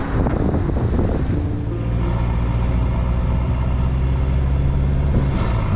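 Motor vehicle engine running steadily while driving, with a low, even engine tone.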